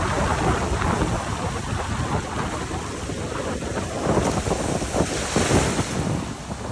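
Strong wind buffeting the microphone in uneven gusts, over lake waves washing on a stony shore.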